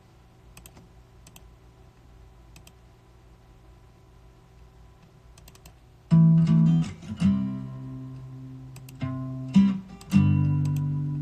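A quiet pause with a few faint clicks, then an acoustic guitar starts strumming chords about six seconds in, loud and in separate strokes.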